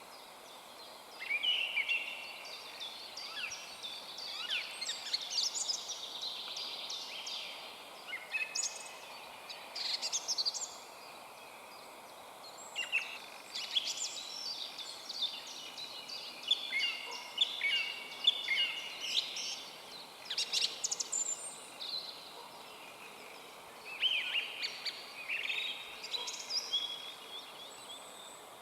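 Songbirds singing: bursts of quick, varied chirping phrases every few seconds, with short pauses between them, over a faint steady hiss.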